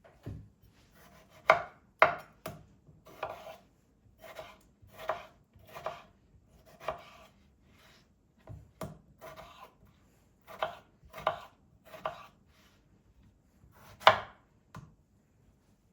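Knife chopping food on a cutting board: a long run of sharp cuts, roughly one or two a second, pausing briefly about halfway through.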